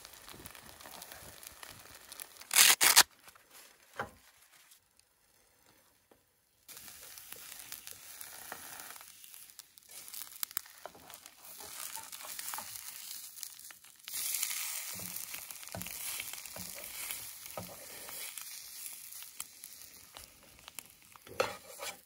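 Strips of sausage bacon frying and sizzling in a pan, with a short loud burst of noise about three seconds in and a brief drop to near silence a couple of seconds later.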